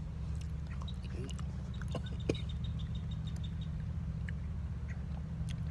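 Mouth sounds of someone chewing a forkful of mashed potatoes: small scattered wet clicks over a steady low hum, with one sharper click about two seconds in.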